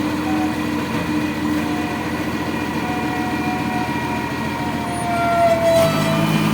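Truck engine running steadily. Near the end there is a sharp click and a lower hum joins in.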